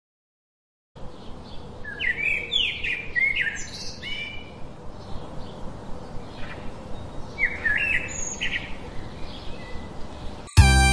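Birds chirping and twittering in short repeated phrases over a steady outdoor background hiss, starting after a second of silence. Bright children's-song music comes in abruptly near the end.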